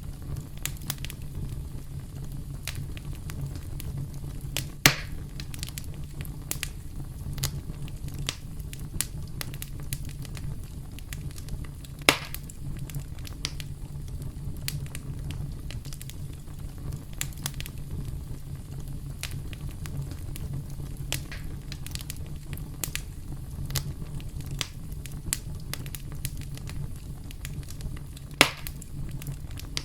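Wood campfire crackling: a steady low rumble of burning with constant small sharp pops and ticks, and three louder snaps spread through it.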